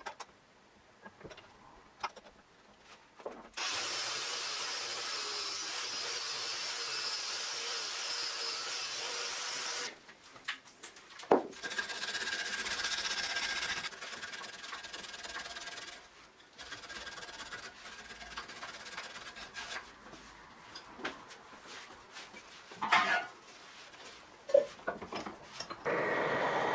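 Workshop tool work on wood. A power tool runs steadily on the wood for about six seconds, then there are shorter stretches of cutting or sanding, broken up by sharp knocks and clicks.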